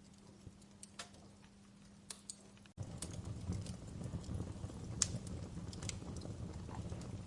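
Wood fire in a fireplace crackling, with sharp irregular pops and snaps. Almost three seconds in, the sound cuts out for an instant and comes back louder, with a low rumble of flames under the crackling.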